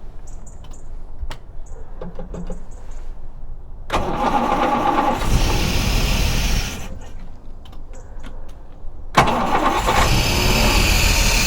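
AC Buckland's six-cylinder engine being started: a few clicks, then the starter cranks and the engine runs for a couple of seconds before stopping, and a second attempt a few seconds later cranks and keeps running.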